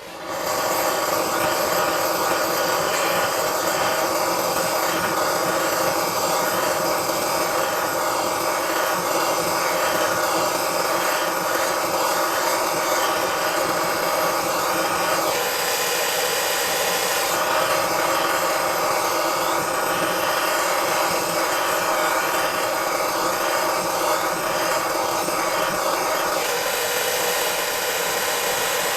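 A machine running steadily, with a dense, even noise carrying several fixed tones. Its character shifts about halfway through and again near the end.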